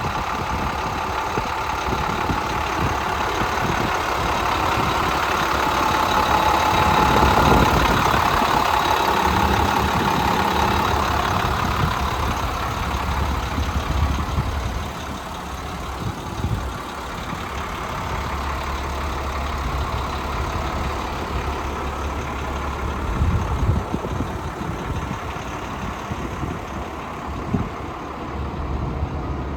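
International DT466 inline-six diesel engine of a fuel truck idling steadily, a little louder about a quarter of the way in, with a few short knocks in the second half.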